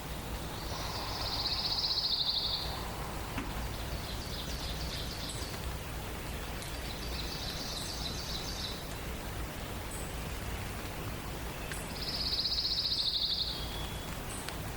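A songbird sings a rapid, high trill of about two seconds, four times over, the first and last loudest. Faint short high chips from another bird sound every second or two over a steady background hiss.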